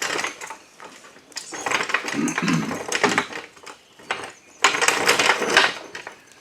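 Metal tools and equipment clattering and clinking as they are handled, in three spells of rapid knocks and clinks.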